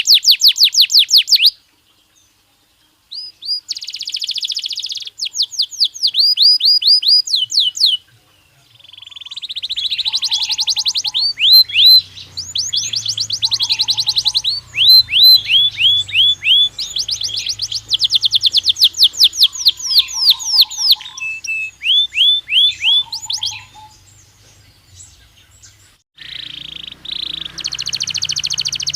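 Belgian canary singing: rapid trills of repeated, high, down-sweeping notes in phrases a few seconds long, broken by short pauses.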